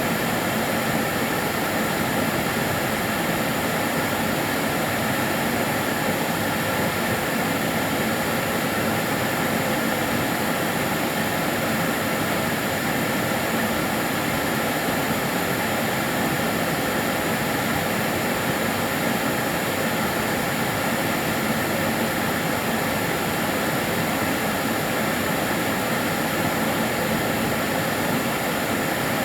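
Kärcher DS 6 Premium water-filter vacuum cleaner running steadily: an even rush of air with a constant high whine from the motor.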